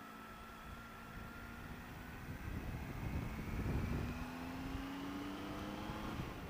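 Triumph Tiger 800 XRT's three-cylinder engine running under way, its pitch rising slowly as the motorcycle picks up speed. Low wind rumble on the microphone swells about halfway through.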